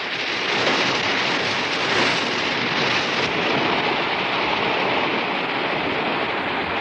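Steady rush of sea water along the bow of a moving boat.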